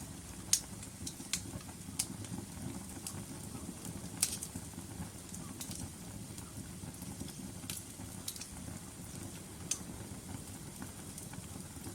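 Wood logs burning in a fireplace: a steady low rumble of flame with sharp, irregular crackles and pops about once a second, the loudest about half a second in and just after four seconds in.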